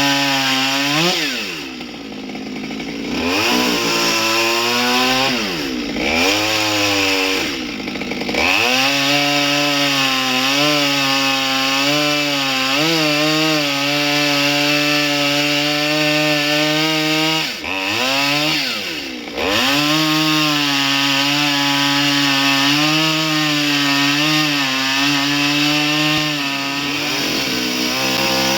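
Petrol chainsaw carving wood, held at high revs for long stretches. The throttle drops off and revs back up several times in the first eight seconds, then twice in quick succession about two-thirds through.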